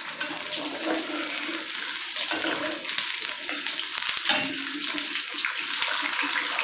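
String beans frying in hot oil in a pan: a steady sizzle with scattered pops of spattering oil.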